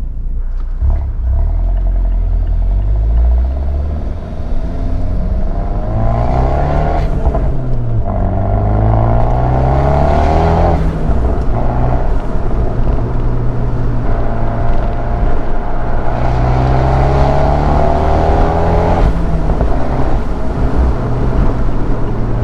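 Big-turbo Fiat 124 Spider Abarth's 1.4-litre turbocharged four-cylinder through a Ragazzon exhaust, accelerating hard under heavy throttle. The revs climb and drop back several times as gears change, with a steadier engine note near the end.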